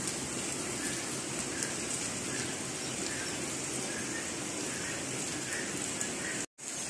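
Rain falling steadily, an even hiss. The sound cuts out completely for a split second about six and a half seconds in.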